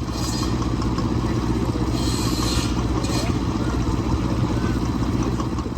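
Vintage tractor engine running steadily with an even, fast beat.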